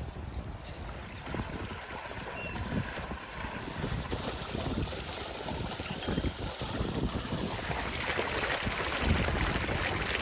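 Running water of a mountain stream with wind gusting on the microphone, a little louder in the last couple of seconds.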